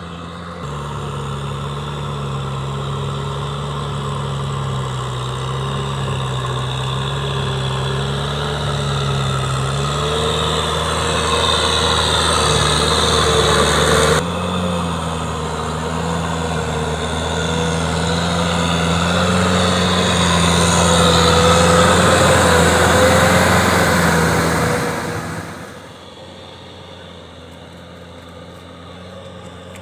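Kubota M6040SU tractor's diesel engine running at a steady pitch, growing louder, with an abrupt break about halfway, then dropping sharply to a much quieter running near the end.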